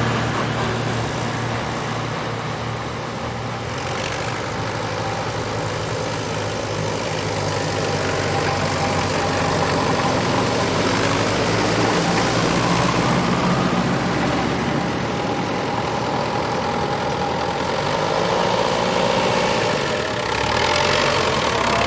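Tractor engines running steadily, their note shifting up and down a few times.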